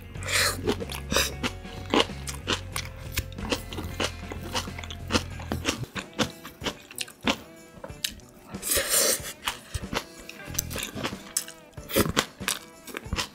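Close-up chewing and crunching of freshly made napa-cabbage kimchi with rice: many crisp crunches and wet mouth sounds in quick succession, with one louder wet, slurping crunch about nine seconds in. Soft background music plays underneath.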